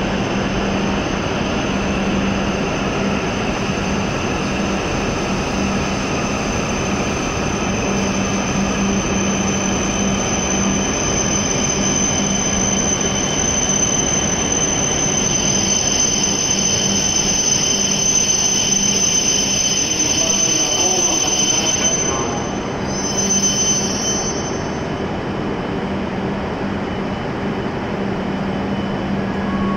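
E7-series Shinkansen trainset rolling slowly into the platform as it brakes to a stop: a steady rumble with a high squeal that grows louder in the last seconds of the approach, then cuts off about three-quarters of the way through as the train halts, leaving a steady hum.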